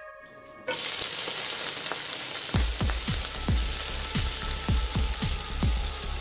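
Beetroot strips and soya chunks sizzling in hot oil in a nonstick frying pan, the sizzle starting suddenly a little under a second in. Midway an electronic music beat with deep kick drums, about two a second, comes in over it.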